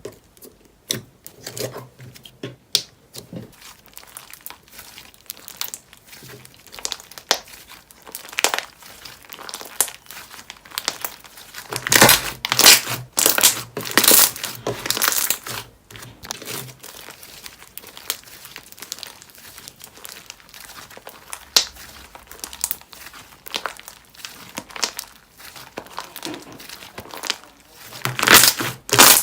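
Hands squeezing and stretching slime, making a run of small crinkly clicks and pops. They are busiest and loudest in a stretch from about twelve to sixteen seconds in, and again near the end.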